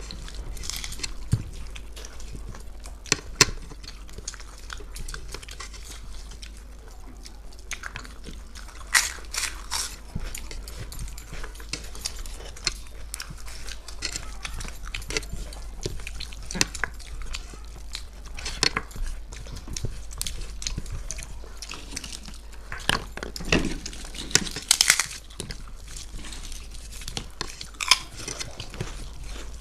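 People eating a meal of rice, fish curry and egg pakora: chewing and mouth noises with many scattered sharp clicks and taps, busiest about nine seconds in and again a little past twenty seconds.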